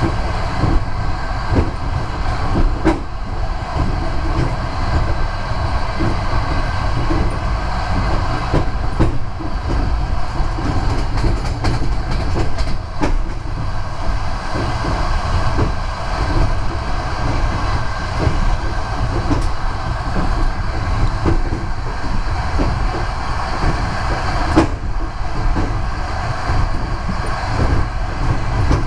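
Passenger train running at speed, heard from inside a carriage: a steady rumble of the wheels on the rails, with irregular clicks and a few sharper knocks.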